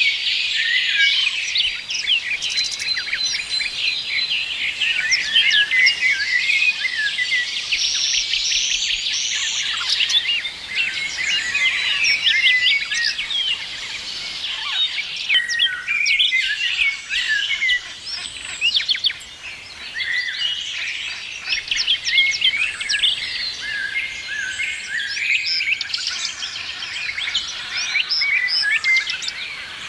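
A chorus of many songbirds singing and chirping at once, with dense, overlapping short high calls and trills that never pause.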